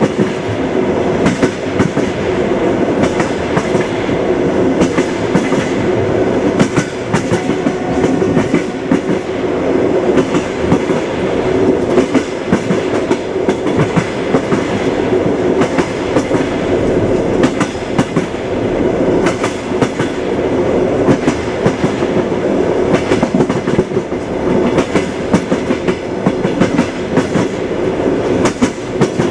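Train wheels clacking over the rail joints as the train runs along, many sharp clacks in an uneven rhythm over a steady rumble.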